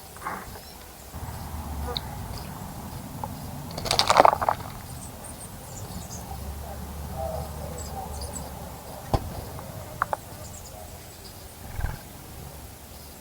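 Wild birds bathing in a bird bath: a loud burst of splashing and fluttering about four seconds in, faint high chirps, and a few sharp ticks later on, over a low rumble.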